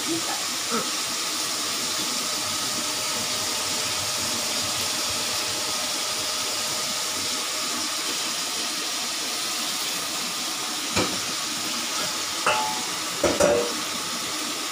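Boiled cucumber pieces and freshly added ground coconut paste sizzling steadily in a wok over a gas flame. A few short knocks come near the end.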